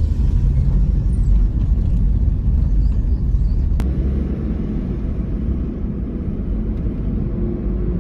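Steady loud low rumble of a car on the move, with one short click about four seconds in.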